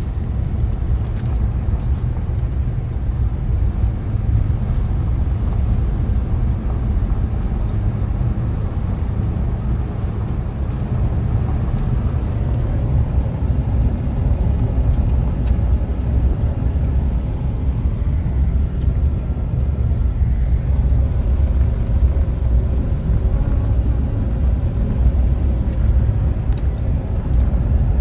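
Steady, loud low rumble of wind buffeting the microphone, with a few faint ticks.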